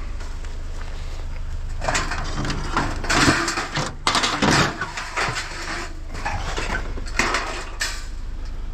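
Scrap metal clattering and knocking in irregular bursts as it is handled, over the steady low hum of an idling vehicle.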